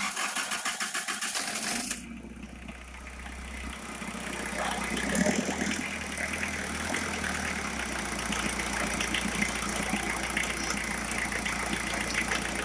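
Diesel engine cranking with a fast, even clatter for about two seconds, then catching and settling into a steady idle while the fuel system is bled of air.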